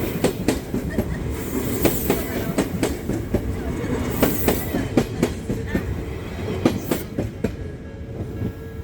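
Odakyu Line train passing over a level crossing: steady rumble with many sharp wheel clacks over the rail joints and the crossing, easing off near the end.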